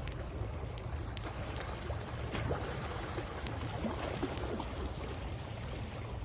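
Sea waves washing on the shore with a steady low rumble, over which a wood bonfire crackles with scattered sharp pops.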